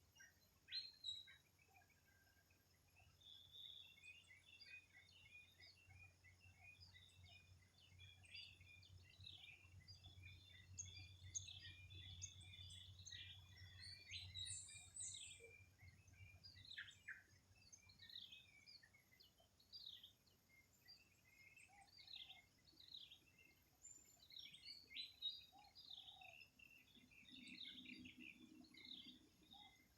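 Several birds chirping and calling over one another, faint, with many short notes rising and falling in pitch throughout. A faint low hum swells and fades away in the middle.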